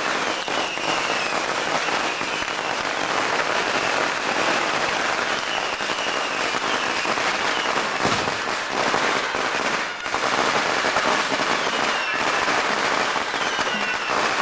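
Strings of firecrackers going off continuously, a dense rapid crackle of pops that dips briefly about ten seconds in.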